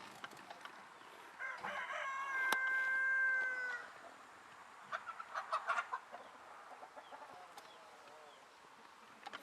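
Rooster crowing once: a single long call, held and dropping slightly in pitch at its end, followed a second or so later by a few faint clicks.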